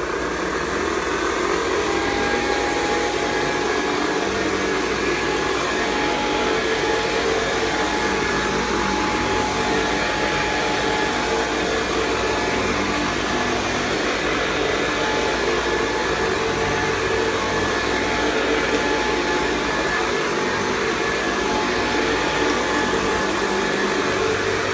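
1969 Hoover Convertible Model 1070 upright vacuum cleaner running on carpet: a steady motor-and-fan whine over a rush of air, the whine rising slightly in pitch in the first second or two as the motor comes up to speed, then holding steady.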